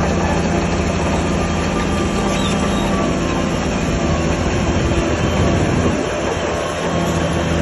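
Crawler bulldozer working: a diesel engine drones steadily under continuous metallic clanking and squealing from its steel tracks. The engine's low hum eases in the middle and comes back strongly near the end.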